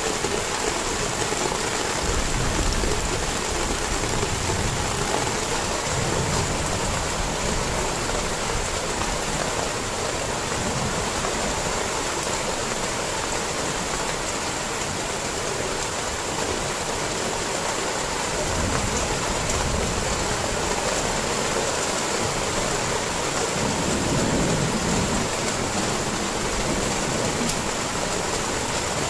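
Heavy rain falling steadily in a thunderstorm, with a few low rumbles swelling up now and then.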